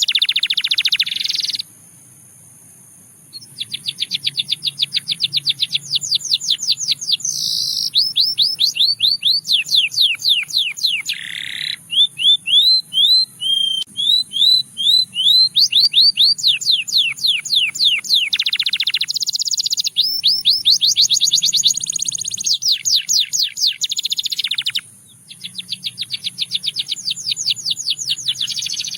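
Russian singing canary singing: fast trills of quickly repeated sweeping notes, changing from one phrase to the next every few seconds, with a slower run of separate chirps midway. It breaks off briefly about two seconds in and again near the end.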